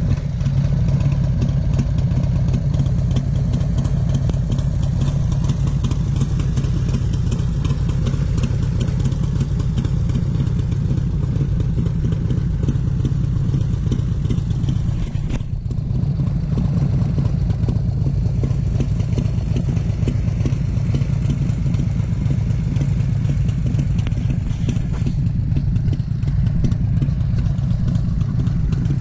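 1997 Harley-Davidson Heritage Springer Softail's Evolution V-twin engine running steadily at a low, even pace, with a brief dip about halfway through.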